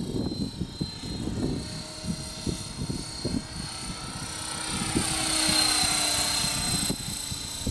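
Electric RC helicopter with a four-blade main rotor flying, its motor and rotor whining steadily. About four seconds in it grows louder and its pitch dips and rises again as it comes closer, with wind rumbling on the microphone underneath.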